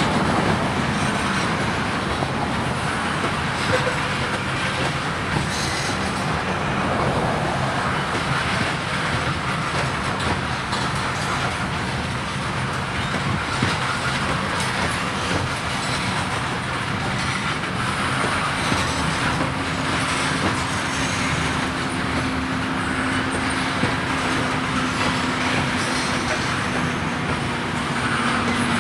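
Covered hopper cars of a freight grain train rolling past, a steady noise of steel wheels on rail. A steady low hum joins about two-thirds of the way through.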